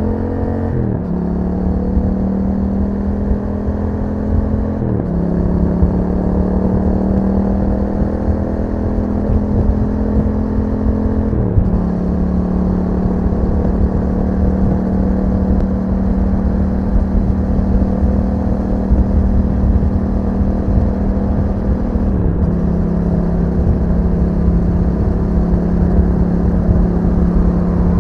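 Yamaha MT-07's 689 cc parallel-twin engine through an Akrapovic exhaust, heard from on board while riding. The engine pulls steadily, with its pitch slowly rising, and drops in pitch four times, about 1, 5, 11 and 22 seconds in, as the rider shifts up.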